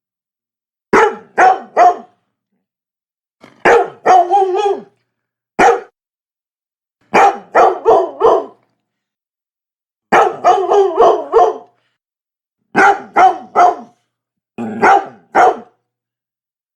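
Labrador barking in short bursts of one to six quick barks, separated by pauses. About four seconds in, a bark runs into a brief low grumble.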